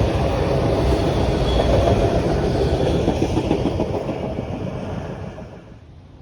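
A train rolling past close by, the noise holding steady and then dying away over the last few seconds as it moves off.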